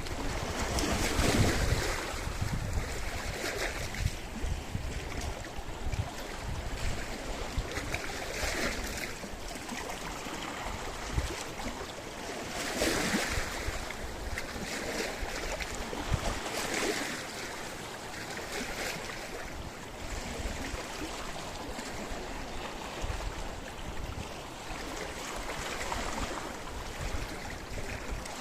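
Sea waves washing against a rocky shore, swelling and breaking every few seconds over a steady wash of surf, with low wind rumble on the microphone.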